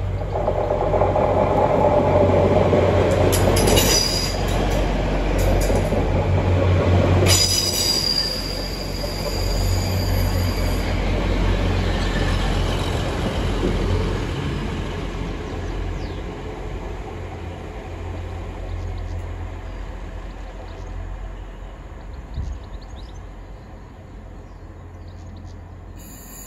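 Grand Central Class 180 diesel multiple unit passing through a station, its underfloor diesel engines and wheels on the rails loudest over the first eight seconds. Brief high wheel squeals come around four and seven seconds in, then the train fades away as it recedes.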